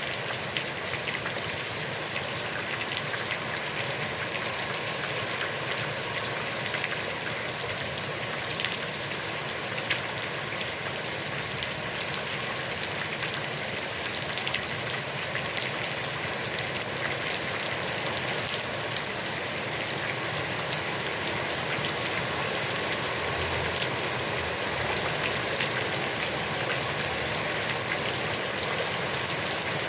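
Heavy rain falling steadily on a pond: a dense, even patter of drops on the water.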